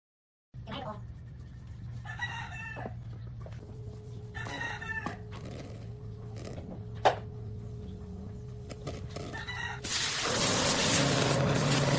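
Rooster crowing and chickens clucking over a low steady hum, starting about half a second in. About ten seconds in, a loud steady rushing noise starts and covers them.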